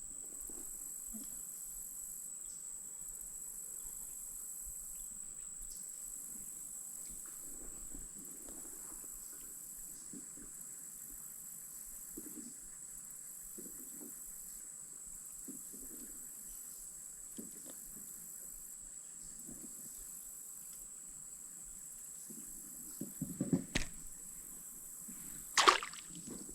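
Steady high-pitched insect chorus. Faint soft knocks sound underneath, and a few louder brief swishes and knocks come near the end.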